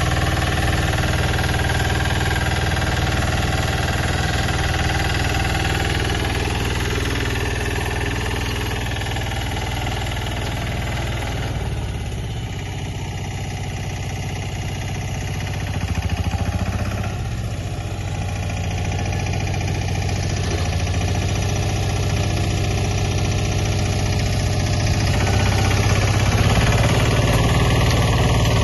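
Tractor engine running steadily. It eases off for a few seconds around the middle and grows louder again near the end.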